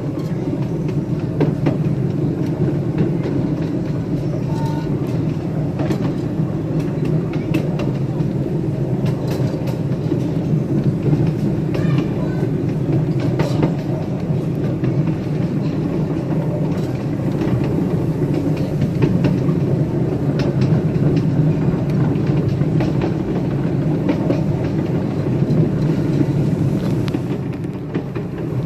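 Miniature live-steam railroad train running along the track, heard from a riding car: a steady low rumble of the wheels on the rails with scattered clicks.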